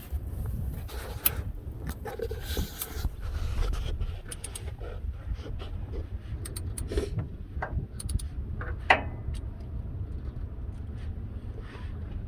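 Scattered clicks and clinks of hand tools working on bolts in the truck, with two sharper knocks about a second in and near nine seconds, over a steady low rumble.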